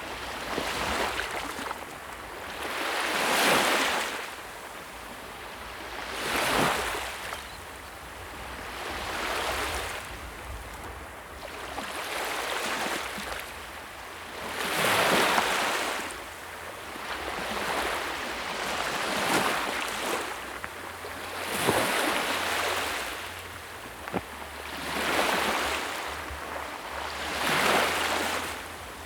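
Sea waves breaking one after another, each swelling up and washing away, about one every three seconds.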